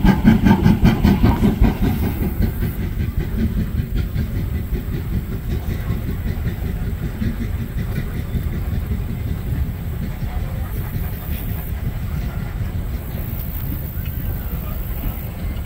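Train of passenger coaches rolling past on the track. A rhythmic clicking fades after about two seconds into a steady low rumble.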